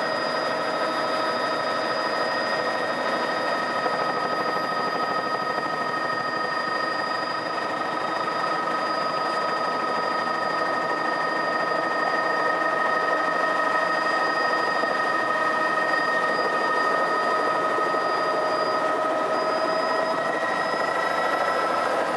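Helicopter running steadily, most likely heard from on board during the ride: a constant engine and rotor drone with several steady high whine tones over it, getting a little louder about halfway through.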